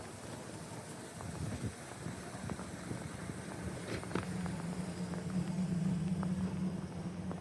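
Snowy city street ambience with a motor vehicle's engine: a steady low hum that comes in about four seconds in. Scattered soft steps crunch in snow.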